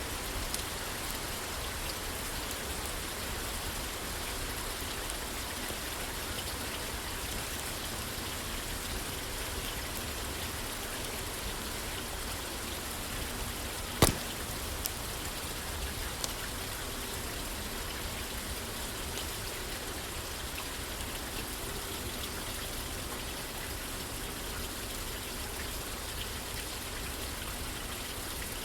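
Steady rain falling on a roof. A sharp pop about halfway through, with a few fainter ones around it.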